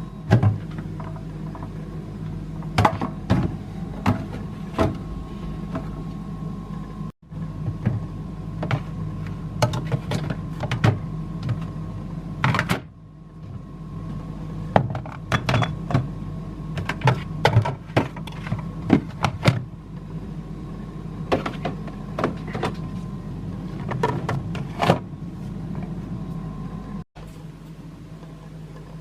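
Plastic storage containers and jars being handled and set down on refrigerator shelves: scattered light clacks, taps and knocks over a steady hum.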